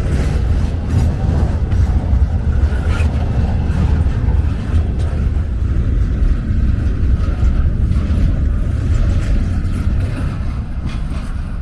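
Intermodal container train rolling past: a steady heavy rumble of wheels on rail, easing off slightly near the end.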